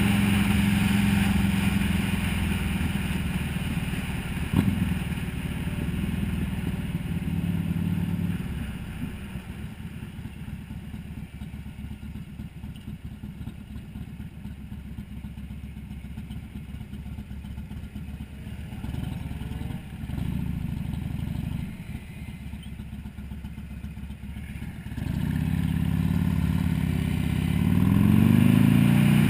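Buell XB12S's air-cooled V-twin engine, heard from the bike itself, running steadily under throttle. About eight seconds in it drops to a quieter, lower running, then picks up again about 25 seconds in, rising in pitch as the bike accelerates near the end. A brief knock comes about four and a half seconds in.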